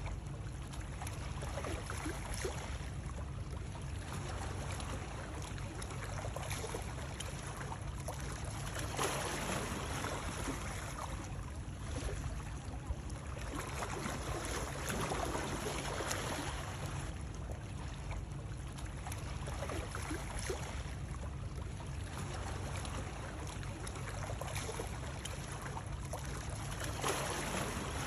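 Continuous water sound, splashing and rushing, with a low rumble underneath. It swells and eases every few seconds.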